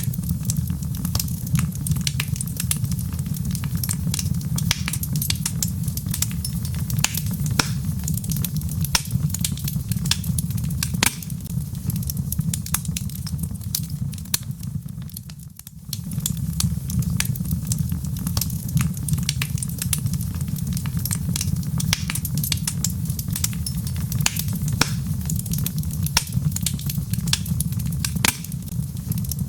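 Wood fire in a fireplace crackling, with frequent sharp pops and snaps over a steady low rumble of the burning logs. About halfway through, the sound briefly dips and then comes back.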